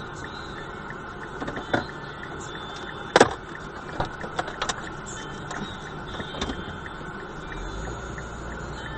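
Steady running noise of a vehicle, broken by a few short sharp knocks, the loudest about three seconds in.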